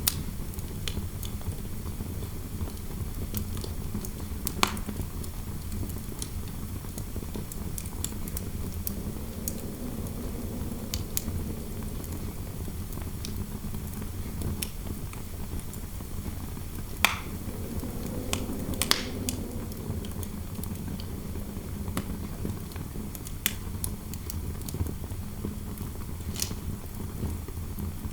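Fireplace fire crackling, with irregular sharp pops (the loudest about 5, 17 and 19 seconds in), over a steady low rumble of wind noise that swells faintly twice.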